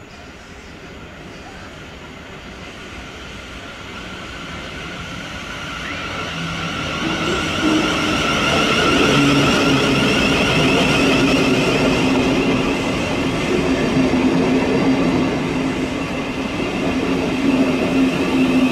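Southeastern electric multiple-unit train approaching along the platform, growing steadily louder over the first nine seconds or so. It then runs loud with a steady low hum over the rush of the train.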